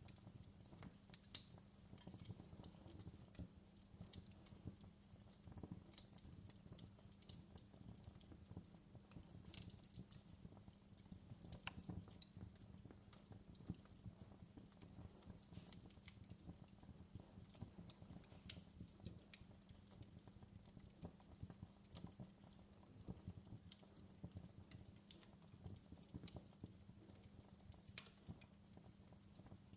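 Fireplace fire crackling softly, with irregular sharp pops and snaps over a low steady rumble.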